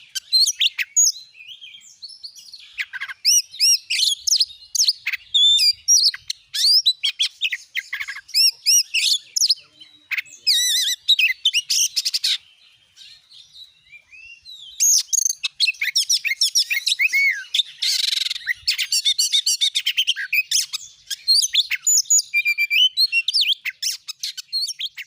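Oriental magpie-robin (kacer) singing a loud, fast, varied song of whistles and chattering notes, pausing for about two seconds about halfway through before resuming.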